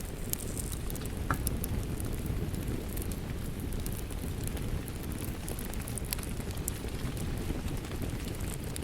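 Wood fire crackling in a fireplace, with scattered sharp pops, over a steady rush of rain.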